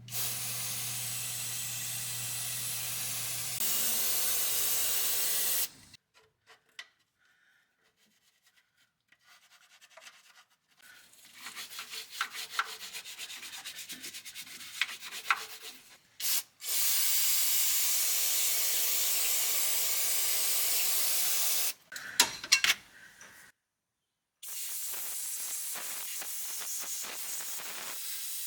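Several long bursts of steady pressurised spray hissing, each starting and stopping abruptly. Between them are stretches of scratchy scraping and rubbing with a few clicks, and short near-silent gaps.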